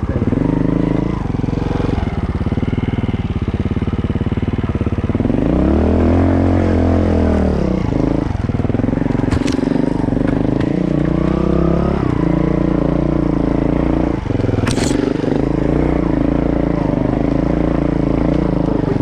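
Honda 4RT trials bike's four-stroke single-cylinder engine pulling at low revs, revving up and dropping back about six seconds in. Two short sharp clicks come through, one near nine seconds and one near fifteen.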